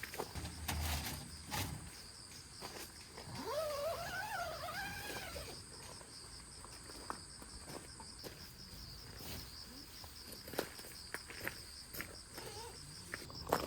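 Crickets chirping in a steady, rapidly pulsing trill, with scattered light clicks and knocks. About three seconds in, a wavering pitched sound rises, wobbles and falls away over a couple of seconds.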